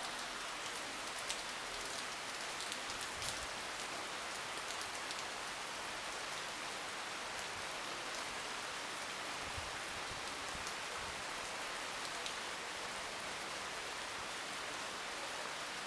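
Steady rain falling: an even hiss with scattered sharper drop ticks, more of them in the first few seconds.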